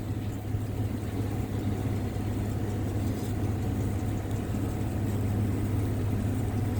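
Truck engine and road noise heard from inside the cab while driving, a steady low hum.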